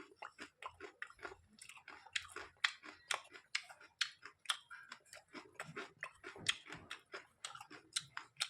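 Close-up chewing of crisp raw vegetables: a quick run of wet crunches, about three a second.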